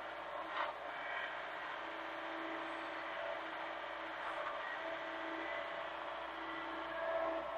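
Hitachi mini excavator running and working, a steady machine drone with a pitch that swells and eases as it works, and a brief knock about half a second in.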